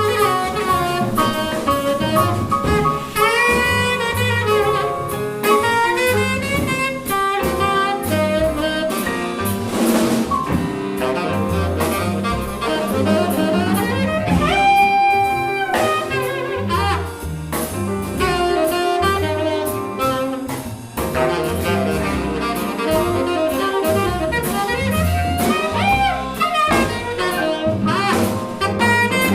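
Small jazz band playing live: a horn carries a fast, melodic solo line, with one long held note about halfway through, over piano, a walking double bass and drums with a steady cymbal beat.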